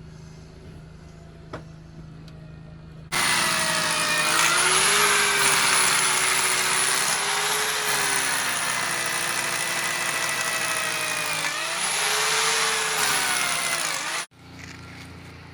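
Electric drill boring a drain hole through a stone wall. It starts abruptly about three seconds in, runs for about eleven seconds with its pitch wavering under load, and cuts off suddenly.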